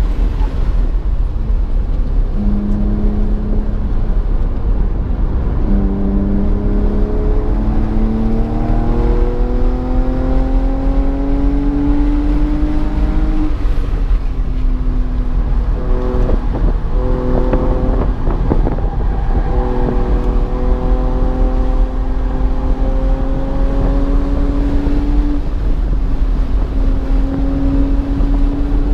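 BMW engine pulling hard through the gears on a track lap: the revs climb steadily and drop at each upshift. In the middle there is a choppy stretch of braking and downshifts with short rev spikes before it accelerates again, all over a constant low rumble.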